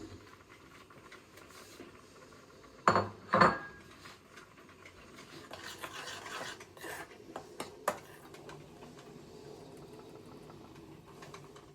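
Dishes and cutlery being handled: two loud clinks about three seconds in, then lighter clicks and knocks, with quiet handling noise between them.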